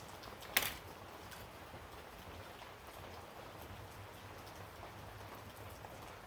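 Small carburetor parts being handled during reassembly: scattered faint taps and ticks, with one sharp click about half a second in, over a steady low hum.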